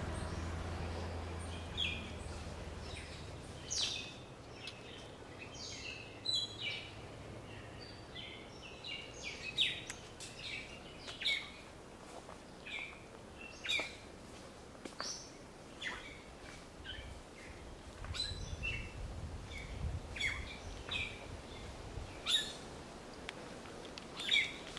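Forest birds chirping and calling, a short call every second or so. A low rumble fades out in the first few seconds.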